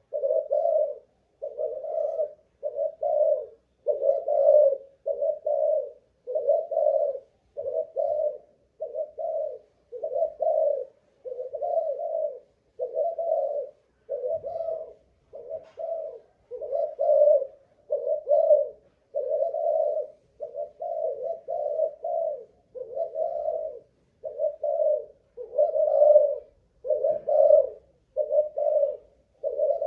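Spotted dove of the Malaysian cooing line cooing without a break, low hoarse coos about one a second. It is a decoy bird's coo being tried for staying power.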